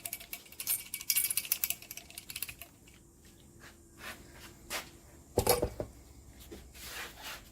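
Fast, dense clicking and light metallic rattling from a disassembled motorcycle shock absorber being handled on the workbench, thinning to scattered clicks, with one louder clatter about five and a half seconds in.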